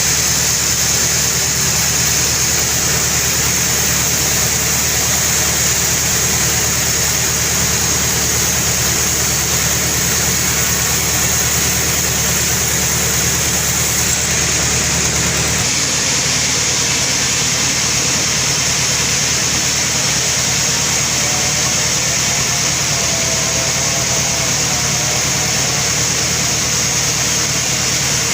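Sawmill running steadily, sawing a very large albasia log. Its low engine hum changes and drops about halfway through.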